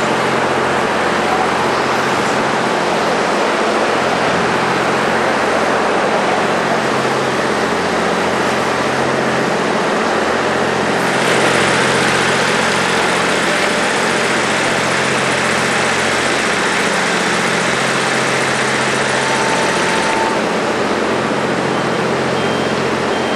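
Car engines idling with a steady low hum over a continuous noisy street background. About eleven seconds in, a louder hiss joins and then cuts off suddenly some nine seconds later.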